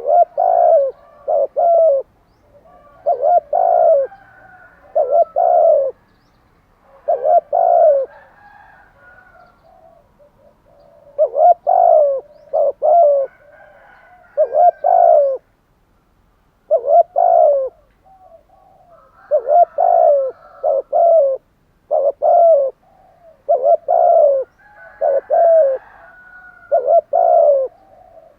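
Spotted dove cooing over and over, each call a quick group of two or three deep coo notes, repeated every couple of seconds. Faint twittering of small birds sounds between the calls.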